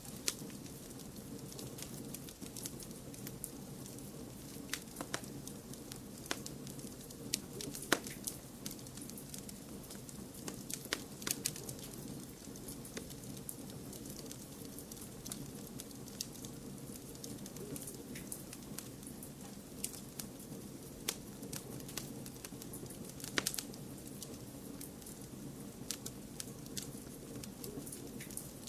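Wood fire crackling: irregular sharp pops and snaps over a steady low hiss, with a few louder pops among them.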